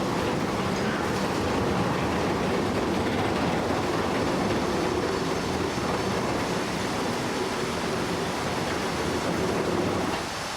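Heavy vehicle in motion, a steady dense rumble with a faint steady drone underneath, easing off slightly near the end.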